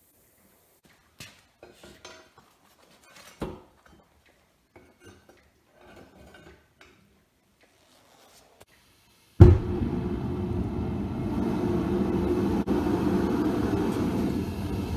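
Light metal clinks and knocks of aluminium scrap parts being handled, then a loud, steady rushing noise starts suddenly about two-thirds of the way in and cuts off abruptly at the end, typical of the melting furnace's burner and blower running.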